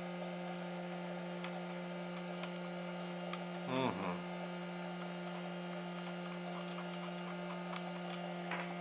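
Steady electrical mains hum, with a short falling-pitched sound about four seconds in and a few faint clicks.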